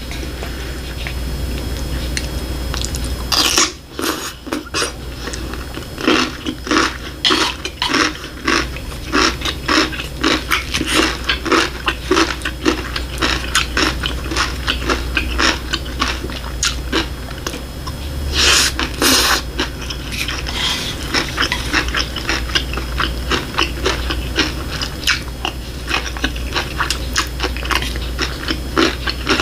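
A person eating close to the microphone: irregular wet chewing and mouth clicks, with louder crunchy bites about three and a half seconds in and again about eighteen seconds in, over a low steady hum.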